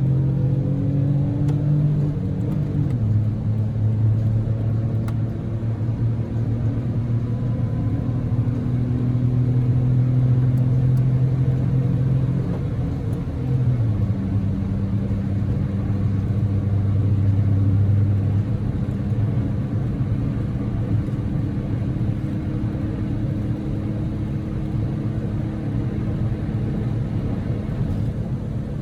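A Daihatsu Move's 660 cc three-cylinder EF-VE engine running steadily while driving, under a constant bed of road noise, heard from inside the cabin. Its hum steps to a lower pitch about three seconds in and changes again about halfway through.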